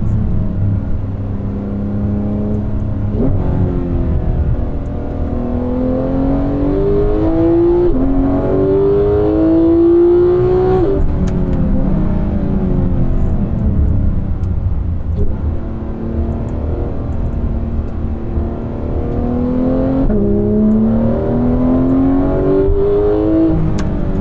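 Porsche 991 GT3's naturally aspirated flat-six engine accelerating hard through the gears on a wet circuit. The pitch climbs and steps up at each shift, then drops sharply as the car lifts and brakes, about 3, 11 and 24 seconds in.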